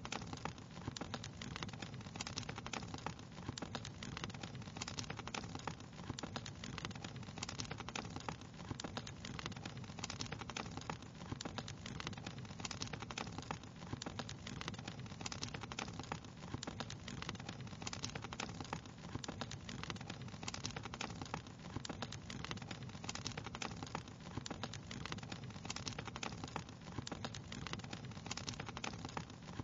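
Wood fire crackling steadily in a fireplace: many small, irregular pops and snaps over a low, even rumble of burning.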